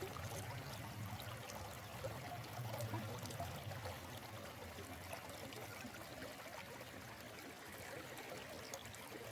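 Stream water flowing and trickling in a steady, even rush.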